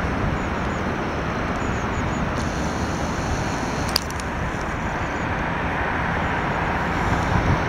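British Airways Boeing 777-200's twin jet engines at takeoff thrust: a steady rushing noise that grows louder near the end.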